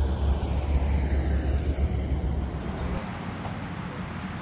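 Pakistan Railways Green Line Express passenger train running past at a distance: a strong low rumble with a hiss that sweeps slowly in pitch. It cuts off about three seconds in, leaving quieter outdoor background noise.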